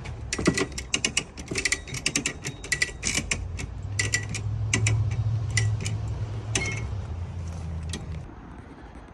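Rapid, irregular mechanical clicking and rattling, joined from about four seconds in by a low steady hum that stops about eight seconds in.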